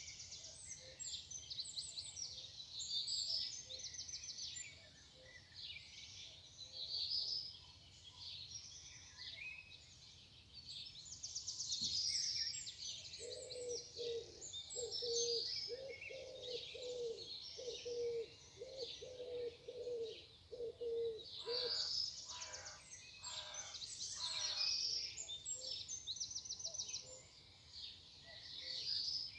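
Morning chorus of several small songbirds singing high chirps and trills, overlapping throughout. In the middle a lower call, possibly a dove's coo, repeats about ten times at a steady pace for around eight seconds.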